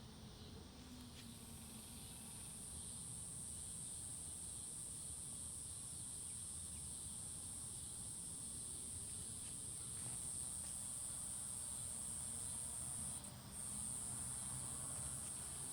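Insects droning steadily at a high pitch in woodland, setting in about a second in, with a brief break near the end.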